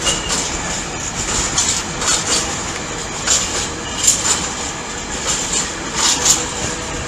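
Freight train rolling steadily past, its wheels clattering irregularly over the rail joints, with a couple of brief high wheel squeals.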